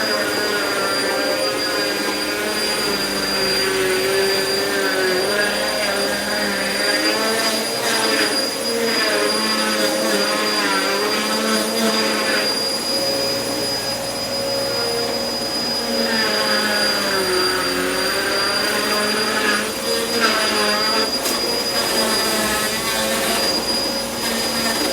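Vacuum cleaner running steadily over carpet, a high motor whine held constant while a lower set of tones wavers up and down in pitch.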